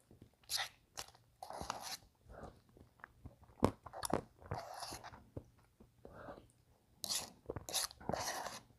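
Close-miked mouth sounds of eating a Kit Kat Blizzard: spoonfuls of soft-serve and Kit Kat pieces chewed and crunched in short, separate bites, with a sharp click about three and a half seconds in.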